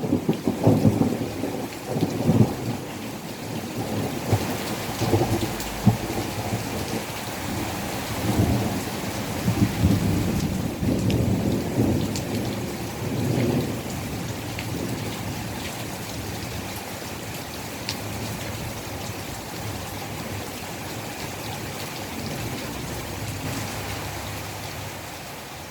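Thunder rumbling repeatedly over steady heavy rain, with a few sharp crackles in the first half; the thunder dies away about halfway through, leaving only rain, which fades out near the end.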